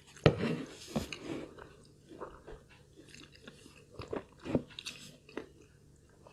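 Close-miked chewing of food, with irregular wet mouth clicks and smacks; the loudest comes about a quarter second in, and several more follow, spaced out.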